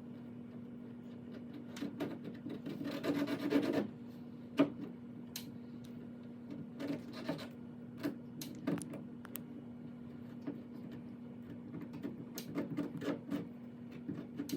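A hot plastic-welding iron rubbing and scraping over a plastic kayak hull, smearing melted plastic into a patch, with a denser stretch of rasping a few seconds in and a few sharp clicks. A steady low hum runs underneath.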